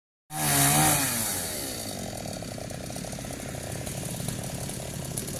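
Two-stroke chainsaw starting loud at high revs, its pitch falling over a second or so to a steady, lower, rapidly pulsing run.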